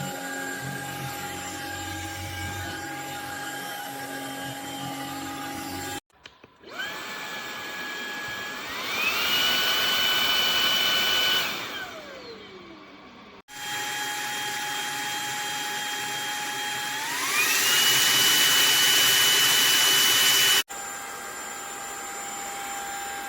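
Brushless motor of a MONSGA cordless stick vacuum running with a steady whine, switched off and on, stepping up to a higher, louder power setting twice. After the first high run it switches off and its whine falls away as it spins down; the second high run cuts off abruptly.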